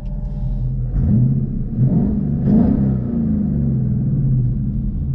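Ford Mustang GT's 5.0 V8 through a Roush cat-back exhaust. It rises in pitch as the car accelerates from about a second in, then falls slowly back as it eases off.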